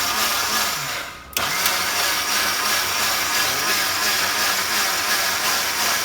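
Electric mixer grinder (mixie) running at high speed, grinding grated coconut with water into a paste for the masala. About a second in the motor winds down briefly, then starts again abruptly at full speed.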